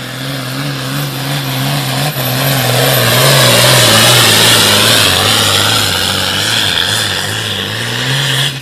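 Hot farm pulling tractor's diesel engine under full load during a pull. It grows louder to a peak about four seconds in, then eases off as it goes by, over a low wavering drone. It cuts off abruptly at the end.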